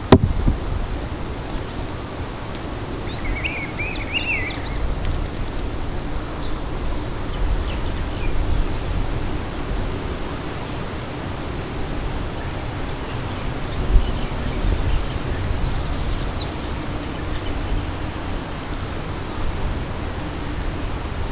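Steady low outdoor rumble with a sharp click right at the start, a bird's quick run of chirping calls about three to five seconds in, fainter chirps later, and a brief knock a little before the two-thirds mark.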